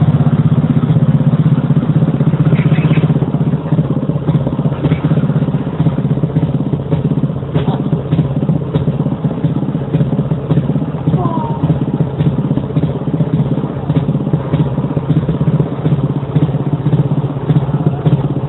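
Small engine running steadily at idle, a little quieter after about three and a half seconds, with a few light clicks over it.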